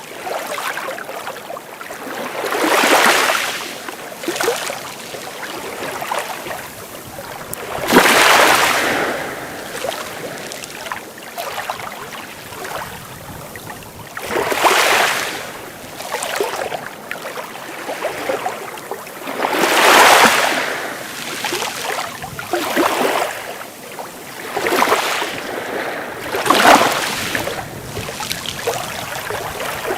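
Sea waves breaking and washing onto the shore, a surge of surf every few seconds over a steady hiss of water.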